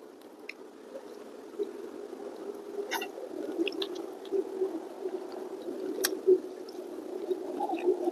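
Close-miked eating sounds: chewing a mouthful of rice and fried fish, with wet mouth clicks and smacks, two sharper clicks about three and six seconds in.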